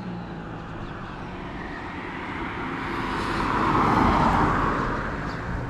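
A vehicle passing by on the road, growing louder to a peak and then fading away.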